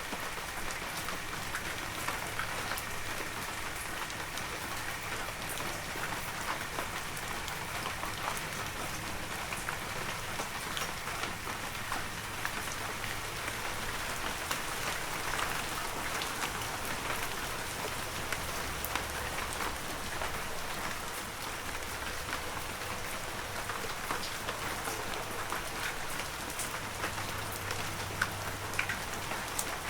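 Steady heavy rain, with many individual drops pattering and ticking on surfaces.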